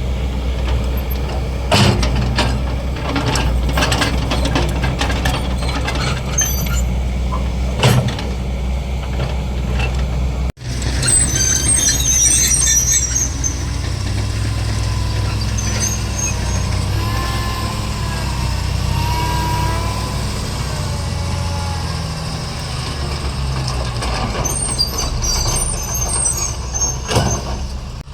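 Heavy excavator's diesel engine running under load, with knocks and clanks of the bucket and material in the first stretch and short high-pitched squeals of metal later on. The sound breaks off abruptly about a third of the way in and picks up again.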